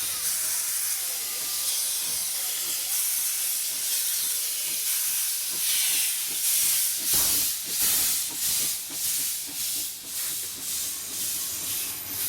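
Steam locomotive hissing steam, then puffing exhaust chuffs at about two a second from about halfway through, as it gets under way.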